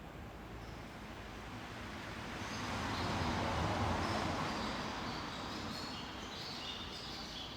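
A vehicle passing by, its rushing noise swelling to a peak about halfway through and then fading. Birds chirp in short high notes through the second half.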